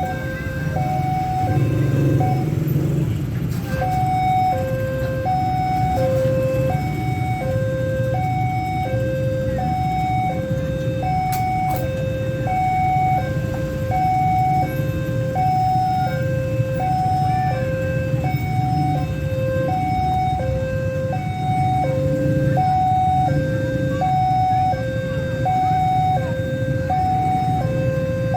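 Railway level-crossing warning alarm sounding a steady alternating two-tone signal, a high and a low tone of about half a second each, repeating without a break, over a low rumble.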